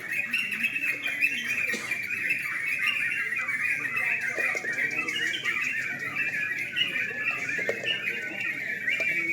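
Several yellow-vented bulbuls (trucukan) singing at once: a dense, unbroken chorus of quick, overlapping chattering notes.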